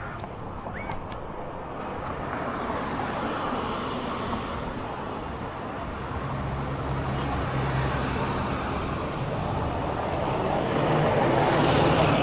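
Road traffic passing close by. A vehicle engine's low hum comes in about halfway, and the sound grows louder toward the end as the traffic nears.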